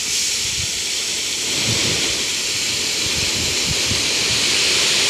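A load of crushed stone and dust sliding off a tipper truck's raised bed, a steady rushing hiss that grows slightly louder toward the end, with low rumbles underneath.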